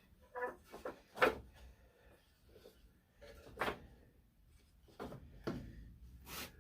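Wooden boards knocking and clattering as they are handled and set down on a workbench: a handful of separate knocks, the loudest about a second in, with some sliding and shuffling between.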